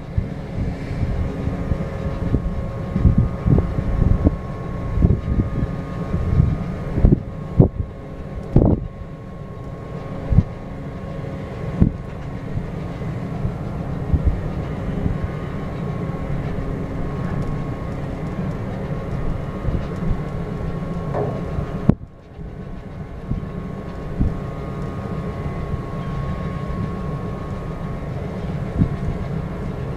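Steady machinery hum from a moored bulk cargo ship, several held tones over a low rumble, with irregular low thumps through the first dozen seconds and a brief dip about 22 seconds in.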